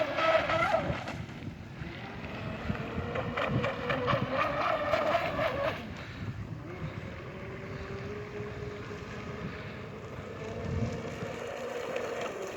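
RC model boat's 2446 2200 kV inrunner electric motor on a 3S battery, whining as the boat runs, its pitch and loudness rising and falling with the throttle. It is loudest at the start, strong again from about two to six seconds in, then drops to a lower, fainter whine that slowly climbs.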